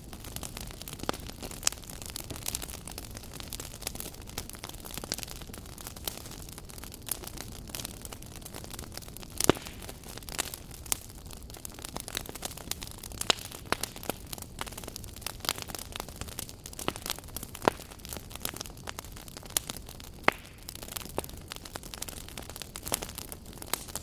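Wood fire burning in a fireplace: a steady low rumble of flame with many irregular crackles and pops, the loudest pop at about nine and a half seconds.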